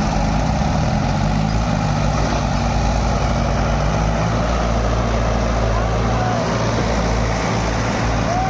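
Mahindra 265 DI tractor's three-cylinder diesel engine running loud and hard under load, trying to pull free of mud; its pitch shifts about a second or two in.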